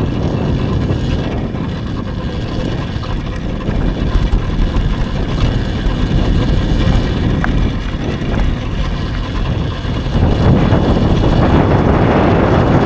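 Wind rushing over the microphone with tyre rumble from an electric dirt bike being ridden on a dirt path; it gets louder about ten seconds in.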